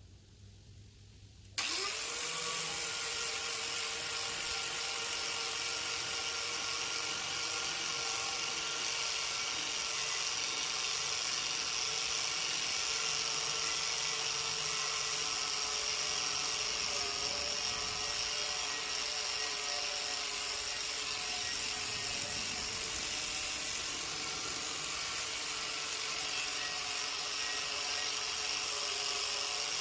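Electric power-tool motor switched on about a second and a half in, quickly spinning up, then running steadily with a high whine and no load on it.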